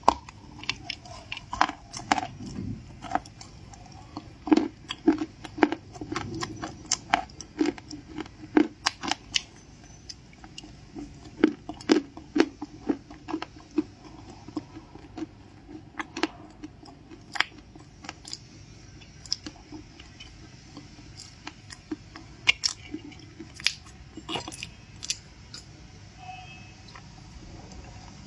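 Close-miked mukbang eating of crunchy stuffed cookies: bites and chewing with many sharp, irregular crunches, several a second.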